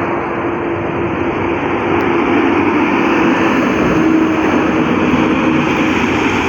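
Steady road noise of highway traffic: tyre and wind noise with a faint steady engine hum.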